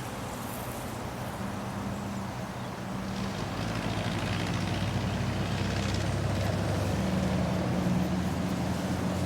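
Steady low hum of a motor vehicle engine running, growing slightly louder.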